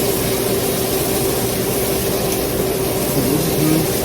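A fan running steadily: an even whooshing hiss with a constant low hum.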